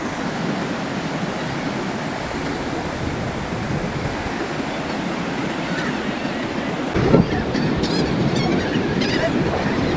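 Surf washing on the shore with wind buffeting the microphone: a steady rush that swells louder about seven seconds in.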